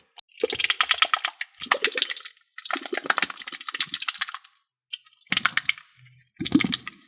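Slime being squeezed and mixed by hand, giving a wet crackling and popping in several spells with short pauses between them.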